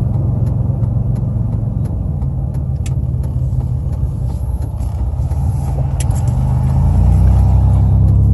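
Car or truck engine and road noise heard from inside the cab while driving: a steady low drone that gets louder near the end. Faint regular ticks run through it.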